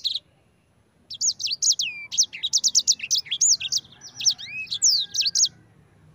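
Sanger songbird singing a fast, dense run of short, high, sweeping chirps, starting about a second in and breaking off shortly before the end.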